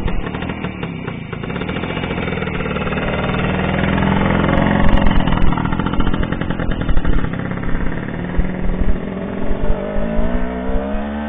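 Single-cylinder two-stroke engine of a 1959 K-58 motorcycle running under throttle: the pitch climbs and the sound grows louder to about halfway, then falls, and the revs rise again near the end.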